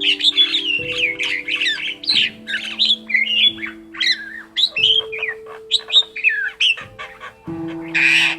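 Male vinous-breasted starling singing a fast, ever-changing song of whistles, chatters and squawks, with a harsh rasping burst near the end.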